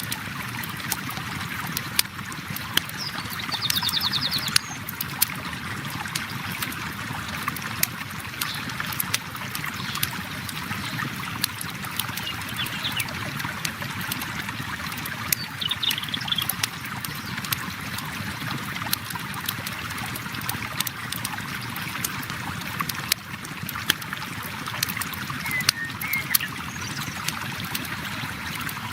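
Flowing river water running steadily, overlaid with the irregular pops and crackles of a wood campfire. A few short high chirps come through now and then.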